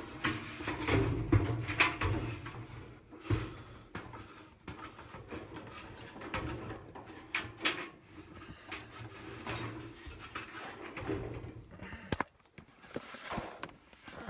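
A dryer drive belt being worked around the drum by hand: irregular rubbing and shuffling with scattered knocks and clicks against the dryer's metal cabinet and drum.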